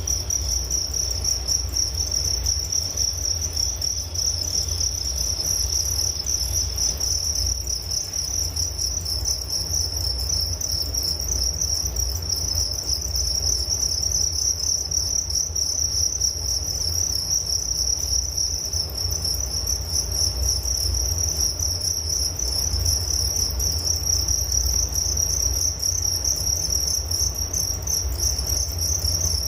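Crickets chirping in a continuous, steady high-pitched trill, with a low rumble underneath.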